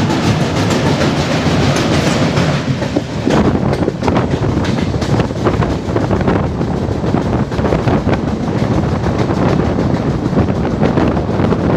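Passenger train running at speed, heard from an open coach door or window: a steady rumble of wheels on rail with fast clicking as the wheels pass over rail joints.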